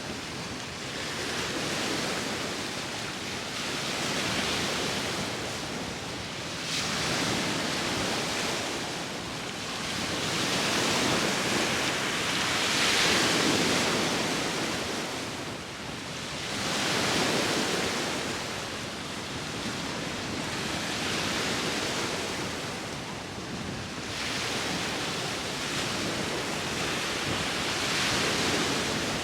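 Sea waves breaking and washing on the shore, the surf swelling and falling back every few seconds, with wind blowing across the microphone.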